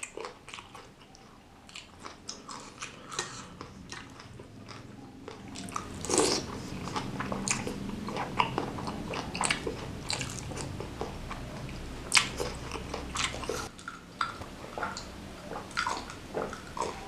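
Close-up mouth sounds of a person eating spicy meatball soup with raw green cayenne chilies: wet chewing and smacking with crunchy bites, louder and fuller from about six seconds in. Near the end come gulps from a glass mug.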